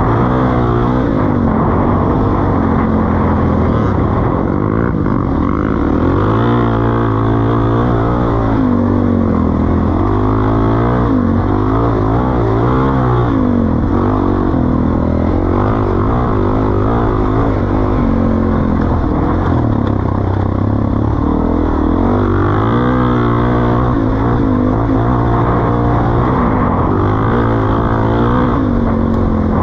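Suzuki DR-Z400E's single-cylinder four-stroke engine running through a Pro Circuit T-4 aftermarket exhaust, its pitch rising and falling as the throttle is opened and closed.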